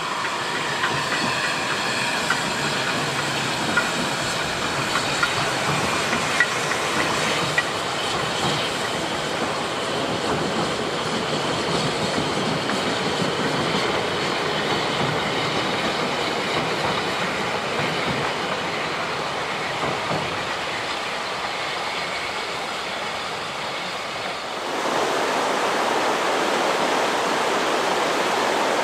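Narrow-gauge Welsh Highland Railway train rolling across a steel truss bridge, its wheels clicking over the rail joints with a faint squeal, over the steady rush of the river below. About 25 seconds in the sound switches to a louder, even rush of river rapids.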